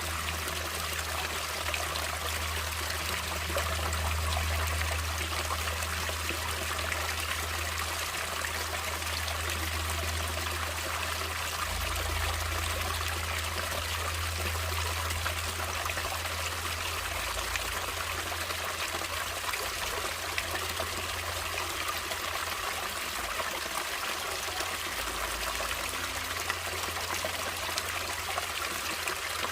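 Natural stream water flowing in a steady, even rush, with a low rumble underneath that swells and fades.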